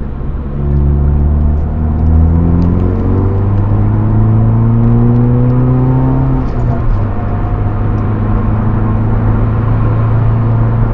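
Hyundai Veloster N's 2.0-litre turbocharged four-cylinder engine, heard from inside the cabin, rising in pitch as the car accelerates. About six and a half seconds in, the pitch drops, then it holds a steady drone with road noise.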